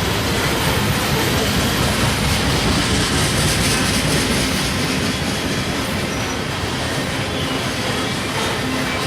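Loaded coal train rolling past, steel wheels running steadily on the rails.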